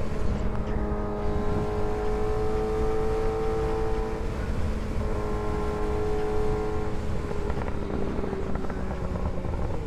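Kawasaki ZX-6R's inline-four engine running at a steady cruise over wind rush. The throttle eases briefly about four seconds in, and the engine note sinks slowly near the end.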